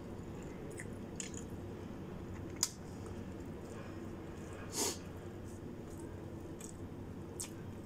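A person eating by hand, with soft chewing and a few scattered small clicks and smacks. The loudest is a brief noisy burst about five seconds in, over a steady low hum.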